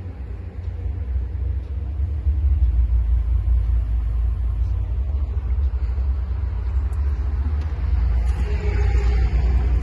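Scania G 420 truck's diesel engine running, a steady low rumble that gets louder about two and a half seconds in.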